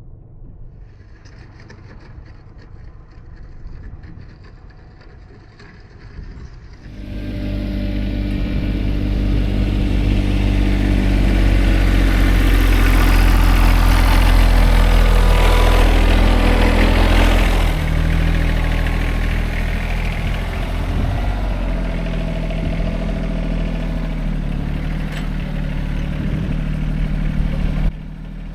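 Rural King RK24 subcompact tractor's engine running. It is fairly quiet for the first several seconds, then much louder from about seven seconds in, with its pitch shifting now and then. It drops off suddenly near the end.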